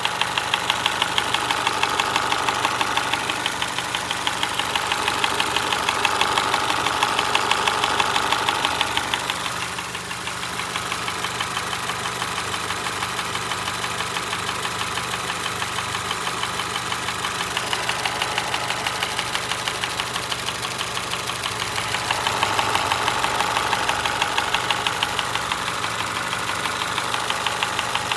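2025 Honda HR-V engine idling with a steady, even, rapid ticking from the engine bay.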